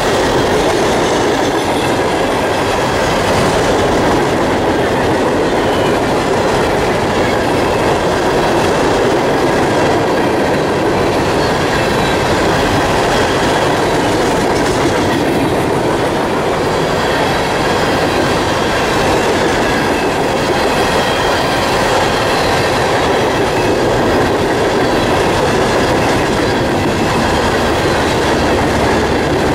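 Empty ballast hopper cars rolling past at trackside, their steel wheels running on the rails with a steady, loud rumble and rattle.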